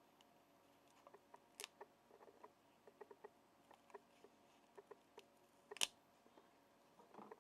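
Faint, irregular small clicks and taps of metal parts being handled on a Chinese HT engine, as the play between its crankshaft and ignition magnet is checked. There is a sharper click about a second and a half in and a louder one near the end.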